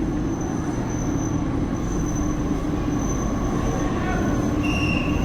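Delhi Metro train running: a steady rumble with a low hum and a thin, steady high-pitched whine over it, and a brief higher tone about four and a half seconds in.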